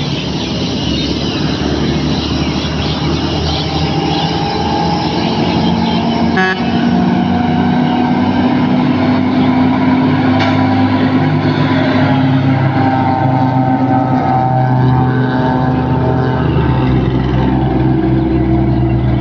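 Scania V8 truck engine running, its note shifting a few times, with a brief break about six and a half seconds in.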